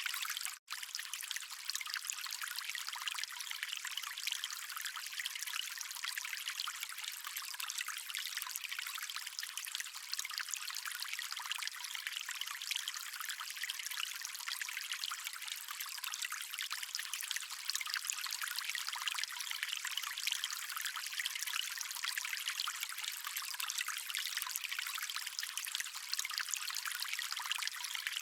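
Stream water flowing steadily: an even, hissy rush with no low rumble. It cuts out for an instant about half a second in.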